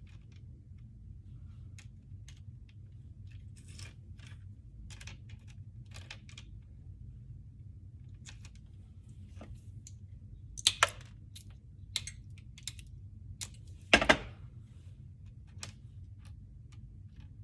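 Scattered light clicks and taps of hand cutting work, with two sharper snaps about eleven and fourteen seconds in, over a steady low hum.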